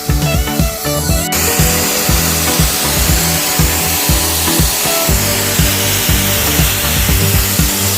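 Background music with a steady beat. About a second in, a loud steady hiss starts over it: the blast of abrasive from a CONTRACOR BLASTRAZOR pressure sandblaster.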